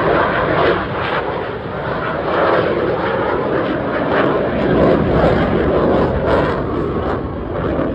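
Airplane engine noise as an aircraft makes a slow pass: a loud, steady rushing sound that swells about five seconds in and eases off toward the end.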